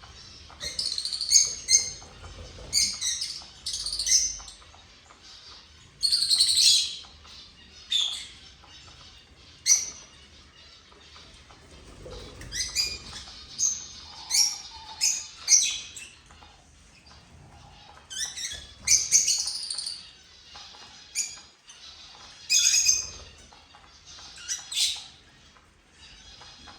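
Small cage birds chirping, many short high calls in irregular clusters with brief quieter gaps between.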